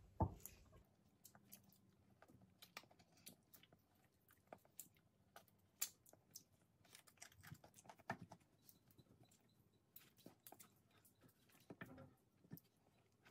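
Faint close-miked chewing of a person eating by hand, with scattered soft wet mouth clicks and smacks at an irregular pace.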